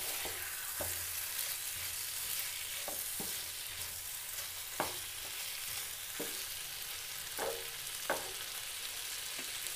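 Chicken and potatoes sizzling in spiced oil in a frying pan while a wooden spatula stirs them, scraping across the pan every second or so. The chicken is being fried down in its masala, the kosha stage of a Bengali curry.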